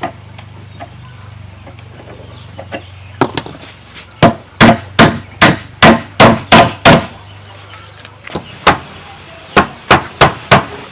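Repeated sharp blows struck on bamboo during door building: a few light knocks, then a fast run of about eight strikes, a single strike, and a short run of four more.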